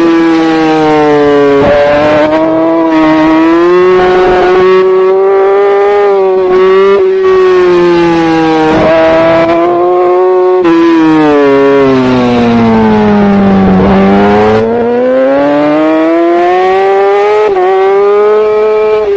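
Superbike engine at race pace, heard from the bike itself, its pitch climbing and stepping down with each gear change. About ten seconds in the revs fall away steadily for a few seconds, as when braking into a corner, then climb again under acceleration.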